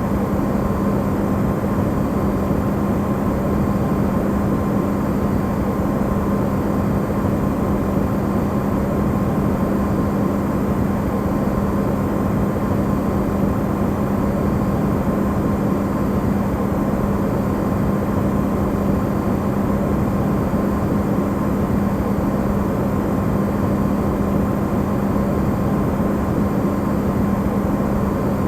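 Amplified refrigerator running: a steady low hum with a constant tone near 200 Hz and a fainter higher whine, under an even noise.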